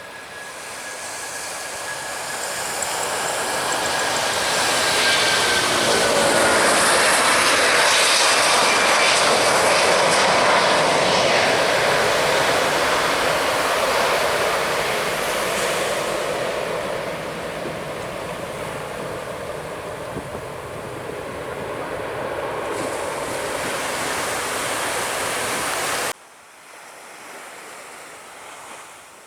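Jet airliner passing low overhead: the engine noise swells over several seconds to a loud peak about eight to ten seconds in, with a falling whine as it goes by, then slowly fades. It cuts off suddenly about three seconds before the end, leaving a quieter rushing background.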